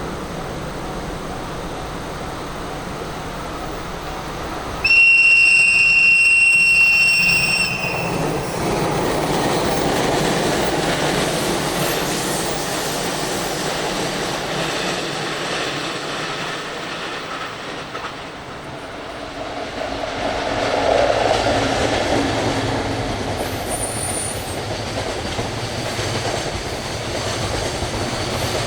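A train sounds its horn, one steady high-pitched blast of about three seconds, then passes close by with rumbling wheels and clickety-clack over the rail joints. A brief high squeal comes near the end.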